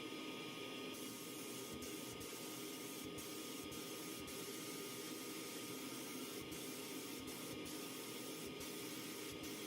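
Steady hiss of compressed-air spraying, with brief breaks about once a second.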